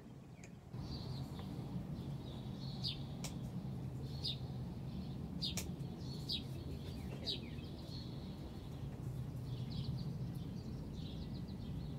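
A bird chirping repeatedly outdoors, giving short, high, falling calls about once a second, with quicker twittering toward the end. Under it a steady low hum comes in suddenly about a second in, and a few sharp ticks sound now and then.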